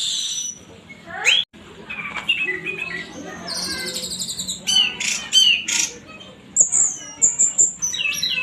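Orange-headed thrush singing a long, varied song of rapid whistled phrases, trills and short harsh notes.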